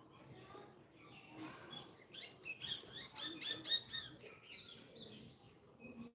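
A bird chirping: a quick run of short, high chirps in the middle, about five a second.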